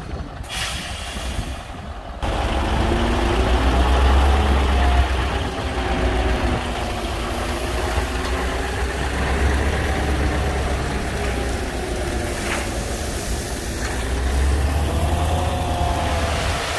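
Heavy diesel engine of earthmoving machinery running and working, its pitch rising and falling. It gets clearly louder about two seconds in.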